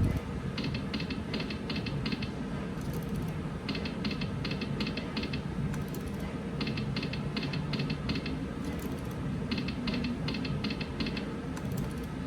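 Eagle Bucks slot machine spinning: a quick run of five or six clicks as the reels stop, repeated four times about three seconds apart over the steady din of a casino floor.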